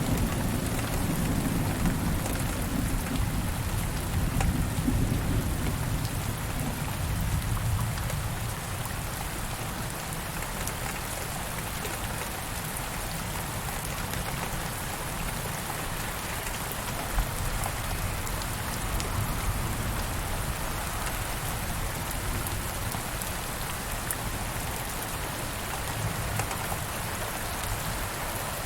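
Steady rain falling, with a low roll of distant thunder that fades away over the first several seconds.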